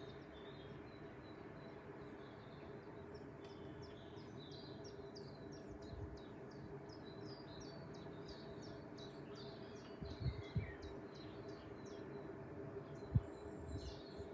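A songbird chirping over and over in quick short notes, over a steady low hum. A few dull low thumps come about two-thirds of the way in, the loudest near the end.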